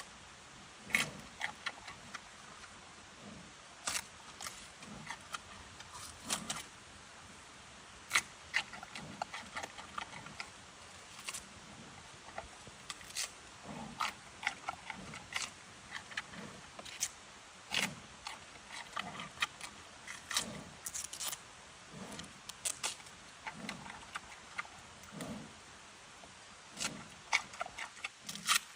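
Giant panda chewing bamboo: irregular sharp cracks and crunches, about one or two a second, as the stalks split between its teeth.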